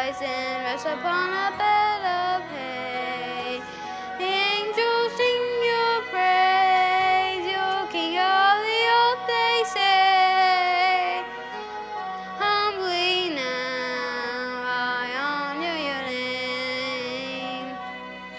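A solo voice singing a slow lullaby with long, gliding held notes over soft instrumental accompaniment.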